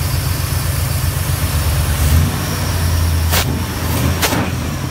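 Stock Dodge 360 V8 with headers idling steadily on a freshly installed FiTech throttle-body fuel injection, its sound rising a little about two seconds in as the throttle linkage is worked by hand. Two short sharp clicks come near the end.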